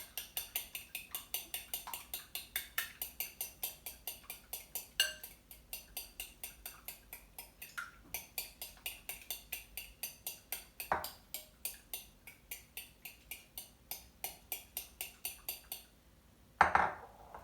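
Egg and cream being beaten by hand in a bowl, the utensil tapping the bowl about four times a second in a steady rhythm. The beating stops near the end, followed by one louder knock.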